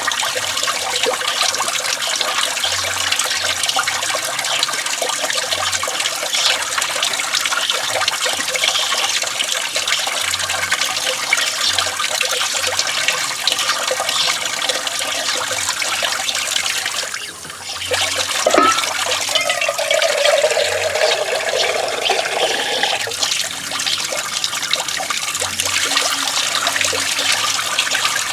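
Water running from an outdoor sink tap and splashing through hair being washed, a steady rush with a short break a little over halfway through.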